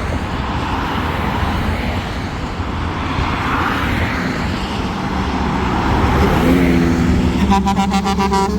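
Steady rumble and road noise of trucks in a convoy. Near the end, several held horn tones start sounding together, followed by further pulsing blasts.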